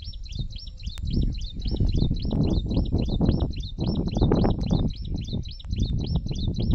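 A bird calling a rapid, even series of short high notes, several a second, without a break. Underneath is a louder, uneven low rumble.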